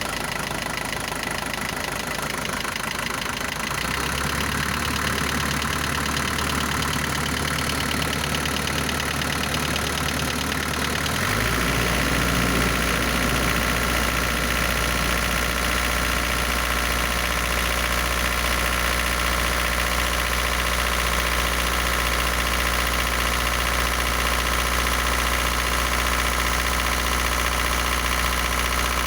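Isuzu NPR diesel engine idling with a rattling tap that the owner likens to a valve-adjustment tap. He says it comes and goes and clears once the engine warms up, and suspects a faulty piston oil squirter. About eleven seconds in, the engine's note shifts and gets slightly louder, then holds steady.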